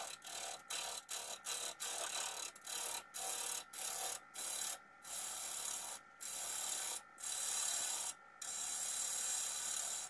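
Woodturning gouge cutting a spinning English walnut bowl blank on a lathe: a run of hissing, scraping cuts, each lasting under a second to about a second with short breaks between. The cutting stops abruptly near the end.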